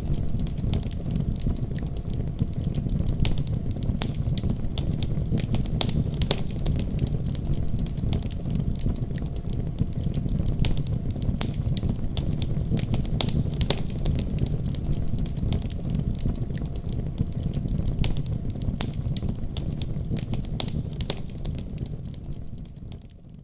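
Fire burning in a fireplace: frequent sharp crackles and pops over a steady low rumble of the flames. It fades out near the end.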